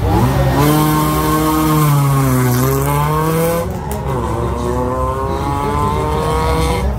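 Race car engine revving at the start, its pitch dipping and then climbing again; about four seconds in the sound cuts to another car's engine accelerating, its pitch rising gradually.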